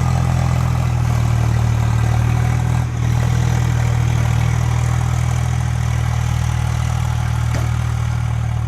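Tractor's diesel engine running steadily with a low, even throb, dipping briefly about three seconds in.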